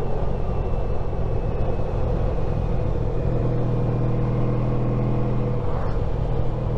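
Honda ST1300 Pan European's V4 engine running on the road under steady road and wind noise, its note unsettled at first and steadying about three seconds in, with a brief break near the end.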